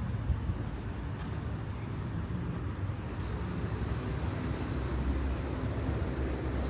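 Steady low rumble of street traffic, swelling slightly about halfway through, with a faint thin high whine joining about three seconds in.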